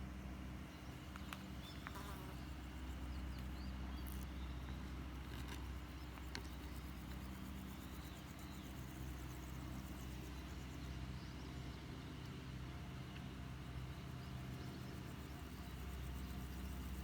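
A steady low mechanical hum, with a few faint, short small-bird chirps and soft clicks in the first several seconds.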